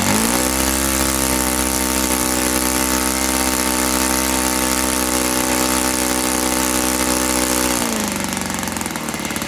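ASP .91 four-stroke model aircraft glow engine on its first run, revved up sharply from idle to high revs, held steady for about eight seconds, then throttled back down near the end. It runs smoothly and evenly at full throttle.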